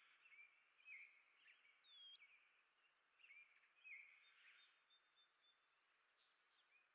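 Faint chirping and short calls of small birds, several overlapping, with one clear whistled note that dips and then rises about two seconds in.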